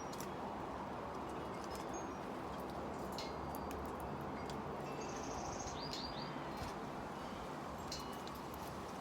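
Small songbirds calling at a backyard feeder: a few brief high chirps, a short rapid trill about five seconds in and three quick falling notes just after, over steady wind noise.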